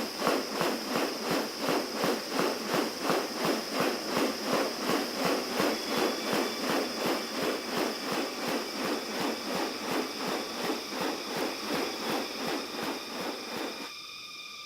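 Rainforest insect chorus: a rhythmic pulsing about three times a second over a steady high whine. The pulsing stops near the end, leaving the whine.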